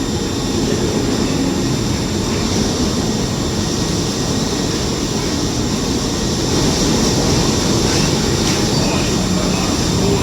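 Strong storm wind and sea aboard a boat in heavy weather: a loud, steady rush with a low rumble, swelling slightly in the second half.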